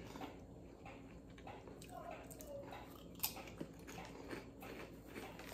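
Potato crisps being bitten and chewed close to the mouth: faint, irregular crunching with a sharper crack a little past three seconds in.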